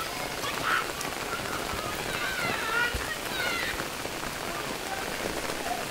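Heavy rain falling steadily onto waterlogged ground. About two seconds in, a few distant high voices call out briefly over it.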